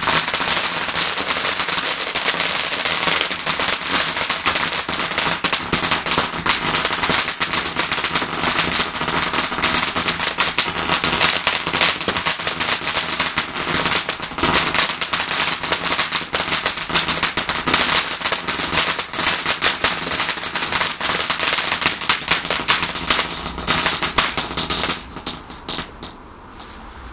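A garden firework going off with a dense, rapid crackling of many small cracks over a steady hiss for about 25 seconds. It thins to a few scattered cracks and stops near the end.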